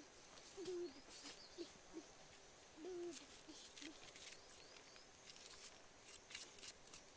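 Faint, low cooing calls of a bird, a few short coos in two or three groups. Alongside them come soft, scattered scrapes and clicks of a knife scraping seeds out of a pumpkin slice.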